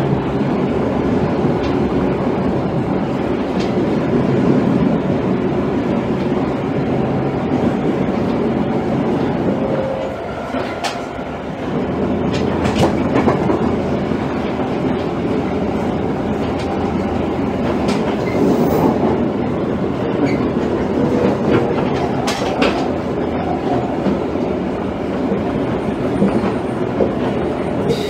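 Toei 5300 series subway train, a Mitsubishi GTO-VVVF unit, running along the track: a steady rumble of wheels on rail with scattered sharp clicks from the rail joints. The sound dips briefly about ten seconds in.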